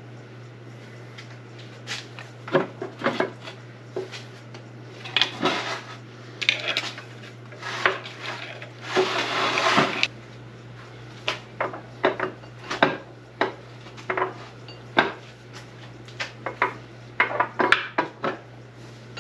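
Steel gears, shafts and bearings of an SM465 transmission clinking and knocking against each other and the case as it is pulled apart by hand, in irregular strikes, with a longer scraping rasp about nine seconds in.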